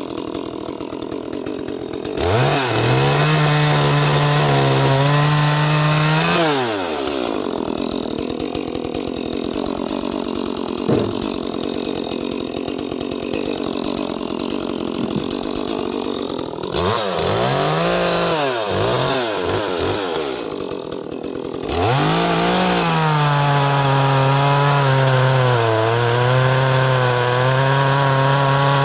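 Small Echo two-stroke chainsaw, a 30cc-class saw, running and working in wood. It starts at a lower steady speed and revs up to full throttle about two seconds in. It runs rougher through a long cut from about seven to seventeen seconds, is blipped several times on the throttle, then holds high revs again near the end with a brief sag in pitch. The saw is being warmed up before it is tuned again.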